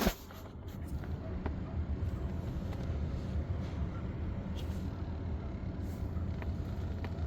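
A 2005 GMC Sierra pickup idling: a steady low rumble with a few faint clicks.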